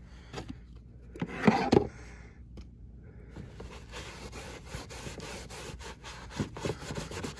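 Microfiber cloth rubbing a trim restorer into faded exterior trim: a steady scratchy wiping made of many small strokes, with a louder rustle about one and a half seconds in.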